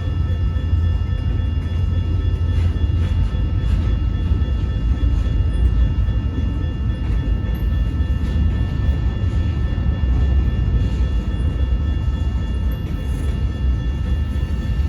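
Freight train rolling through a road crossing: a steady low rumble of the cars passing, with steady high ringing tones above it and faint clicks from the wheels.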